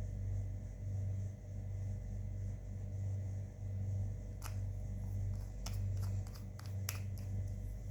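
Slime being mixed by hand: a run of small sharp sticky clicks and pops in the second half, over a steady low hum that swells and dips.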